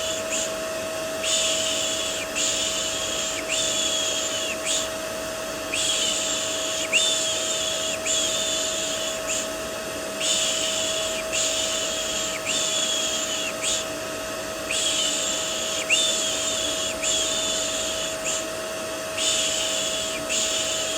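Steady vacuum cleaner drone with a constant hum, overlaid with repeated soft 'shh' shushing. The shushes come about once a second in runs of four, with short pauses between runs, as a white-noise track for calming a baby to sleep.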